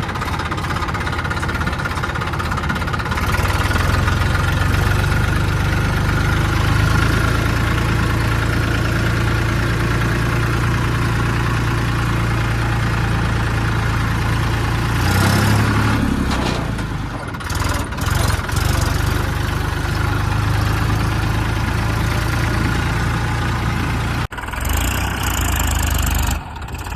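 A farm tractor's diesel engine running steadily under load while pulling a fully loaded trolley of soil. Its note shifts and dips about two-thirds of the way through, and near the end the sound changes abruptly.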